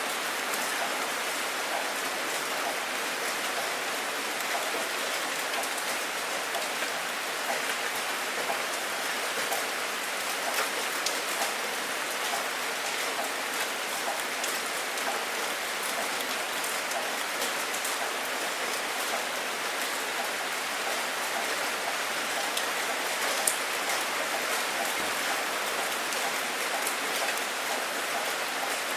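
Steady rain falling on a surface, an even hiss dense with the ticks of individual drops.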